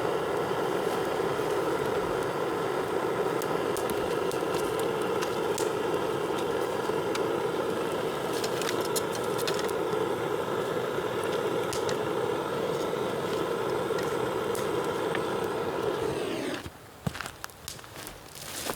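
Bamboo bonfire burning: a steady rush of flame with sharp crackles and pops scattered through it. About sixteen seconds in the rush cuts off suddenly, leaving only a few quieter crackles and clicks.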